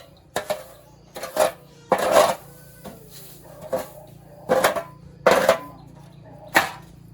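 Irregular knocks and scrapes of hand work on the mill, about seven strokes, some short and some drawn out. A faint steady low hum runs under them.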